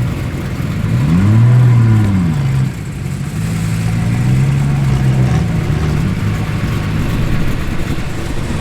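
Car engine revved once, pitch rising and falling about a second in, then running lower and steadier with a smaller blip of the throttle near six seconds.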